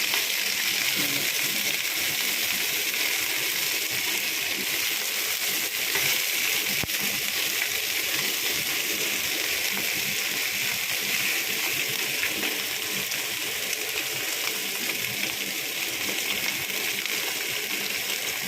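Small red fish frying in hot oil in a pan, a steady sizzling hiss with fine crackles throughout.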